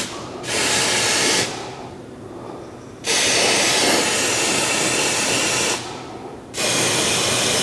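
Aerosol can of white lithium grease spraying onto a rusty roll-up garage door spring in hissing bursts: a short one near the start, one of nearly three seconds in the middle, and another near the end.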